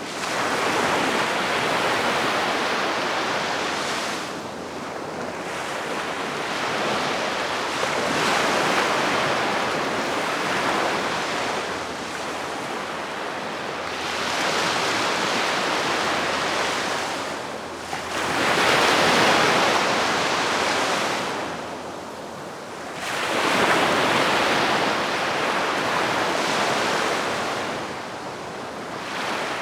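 Gentle sea waves washing onto the shore, each surge swelling and falling away every four to six seconds, with stronger washes about a third and two thirds of the way through.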